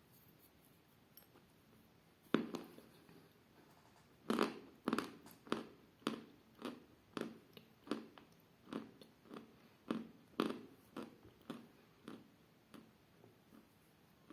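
A person biting into a piece of chalk with one sharp crunch, then chewing it in a steady run of crunches at about two a second, close to the microphone. The crunch is dull and short.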